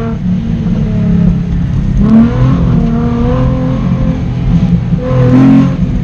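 Nissan 350Z's 3.5-litre V6 engine under throttle, rising in pitch twice: about two seconds in and again about five seconds in.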